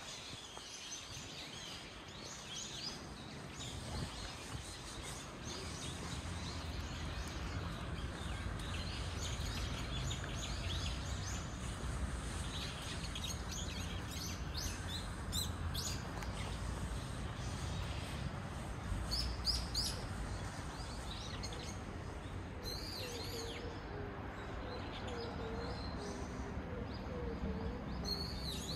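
Small birds chirping and calling on and off, short high notes, more of them in the second half, over a steady low background rumble.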